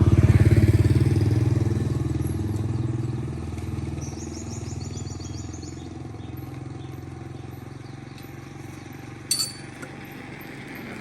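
An engine running steadily, loudest in the first couple of seconds and then settling to a lower level. A single sharp knock sounds about nine seconds in.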